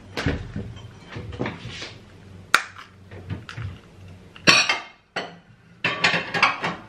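Dishes and cutlery being handled, with a string of clinks and knocks. There is a sharp clink about two and a half seconds in, the loudest clatter halfway through, and a quick run of knocks near the end.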